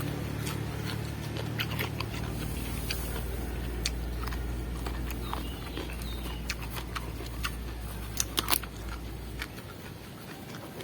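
Mouth crunching and chewing a raw small eggplant, many sharp crisp bites, with a run of louder crunches near the end. A steady low hum lies underneath through most of it.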